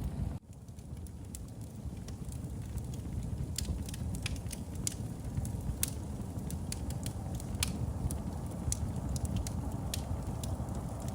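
Wood fire in a fireplace crackling, with irregular sharp pops and snaps over a steady low rumble of the flames. The sound drops out briefly just under half a second in.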